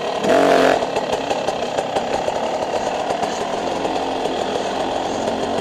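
Dirt bike engine revving briefly about half a second in, then dropping back to a steady low-rev run with a rattly, clicking note.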